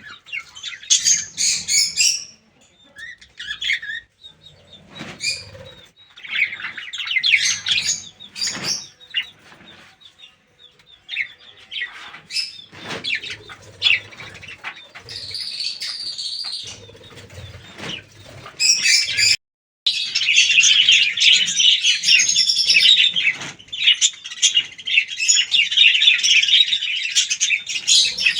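A flock of budgerigars chattering and warbling, high and busy, at first in patches. After a brief break about two-thirds of the way through, the chatter becomes dense and continuous.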